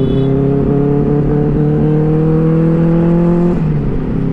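Benelli 600i's inline-four engine running under steady throttle while riding, its pitch creeping slowly upward. About three and a half seconds in, the pitch drops suddenly.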